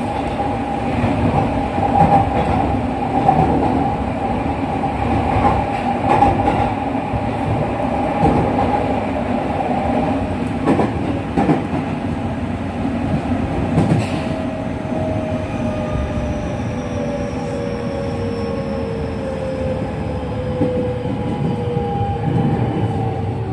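JR West 207 series electric train running, heard from inside the car: steady wheel and rail noise with regular knocks over the rail joints and a held motor tone. About two-thirds of the way through, a set of whining tones starts sliding steadily down in pitch, the sound of the traction motors as the train slows.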